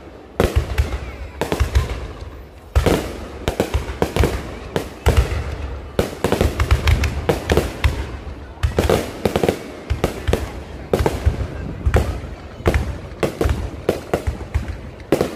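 Low-altitude fireworks display going off: a dense, rapid run of bangs and crackling pops, several a second, with deep booms.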